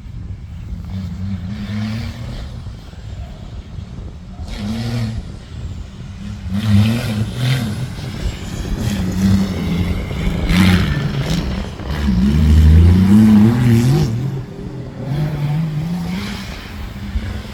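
Competition safari off-road vehicle's engine revving up and dropping back again and again as it drives hard over rough ground, with several sharp bursts of noise from the terrain.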